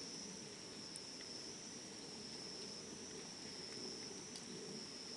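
Steady high trill of a cricket, with a wood fire burning underneath and giving a couple of faint crackles.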